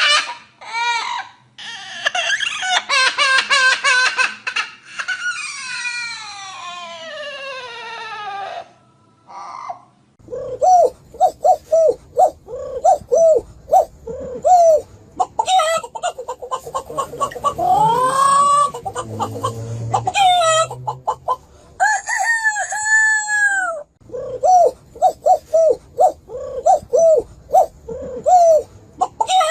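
Chickens calling and crowing. Over the first eight seconds or so there are long calls that fall in pitch. From about ten seconds in come runs of short, quick, repeated calls, broken by a few longer arched calls.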